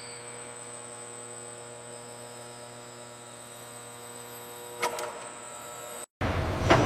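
Steady machine hum made of many even tones, with a short sharp click about five seconds in. Near the end it cuts to a louder, noisier machinery sound with a few clicks.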